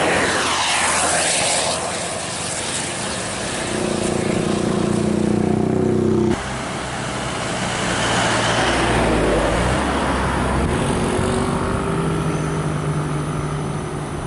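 Large intercity buses passing close by on a highway, engine and tyre noise rising and falling as they go past. The sound changes abruptly about six seconds in, then another bus passes.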